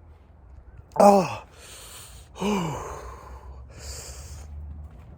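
A man sighing and groaning with heavy breathing while his mouth burns from a freshly eaten Death Spiral chilli. There are two falling groans, about a second in and about two and a half seconds in, with loud breaths in and out between and after them.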